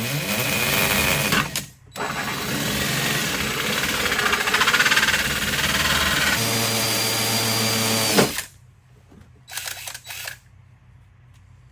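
A handheld power tool running hard in two long runs, spinning up at the start, with a brief break about two seconds in, then a shorter burst near the end.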